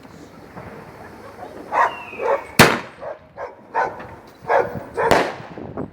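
A dog barking repeatedly, about six barks in a row, with two sharp firework bangs about two and a half and five seconds in.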